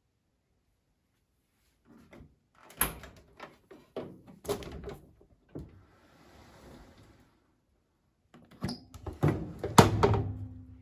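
Lid and drum of a Privileg Sensation 952 S top-loading washing machine being handled: a run of knocks, clicks and thunks in two bursts with a pause between, the loudest thunk near the end.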